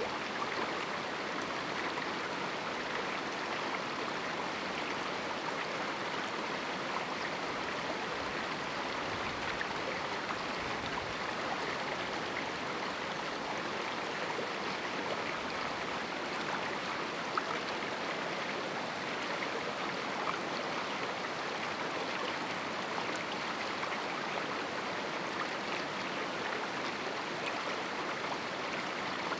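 A river running through a small rocky canyon: a steady rushing of water. A single faint tick or splash stands out briefly about 17 seconds in.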